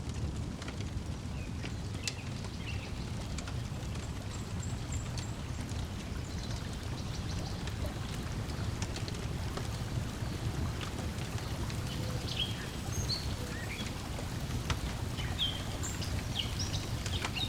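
Lakeside nature ambience: a steady low wash of lapping water, with scattered crackles of a wood fire and short bird chirps now and then.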